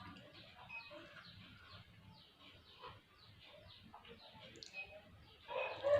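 Small birds chirping repeatedly in the background, each chirp a short falling note. Near the end a rooster starts to crow.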